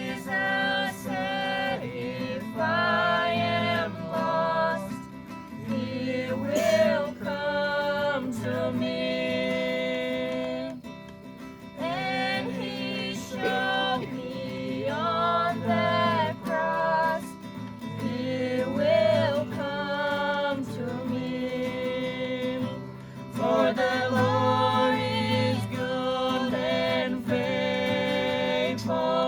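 A song: a voice singing a melody over strummed acoustic guitar chords, without a break.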